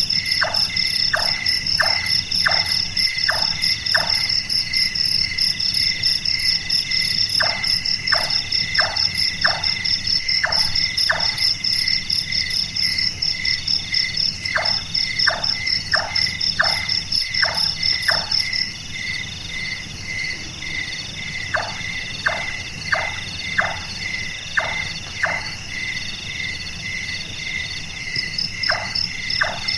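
Large-tailed nightjar calling: bouts of five or six short, knocking 'chonk' notes a little under a second apart, with pauses of a few seconds between bouts. Under it runs a steady chorus of insects with pulsing cricket trills, the highest of which stops about two-thirds of the way through.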